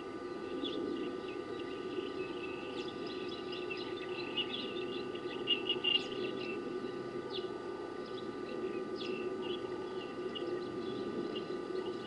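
Small birds chirping and twittering: many short, high notes and quick sweeps, busiest in the middle, over a steady low hum.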